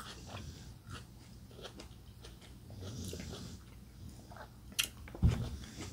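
Close-up chewing and biting of juicy cotton candy grapes, a series of small wet mouth clicks. Near the end there is a sharper click, then a brief low thump.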